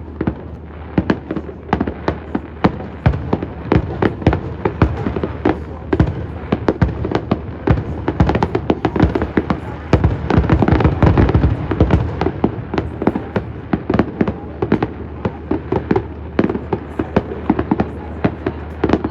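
Aerial fireworks bursting in quick succession, a steady run of sharp booms and crackles that thickens into a dense, loud barrage about halfway through before thinning out again.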